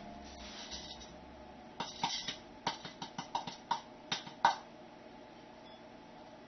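A quick, irregular run of about ten sharp clicks and knocks, some with a brief ring, starting about two seconds in and stopping by halfway, over a faint background.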